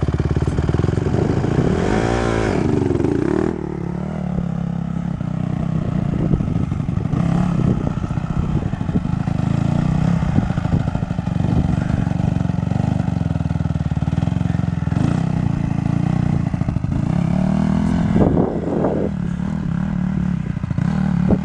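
Dirt bike engine running, its revs rising and falling about two seconds in and again near the end.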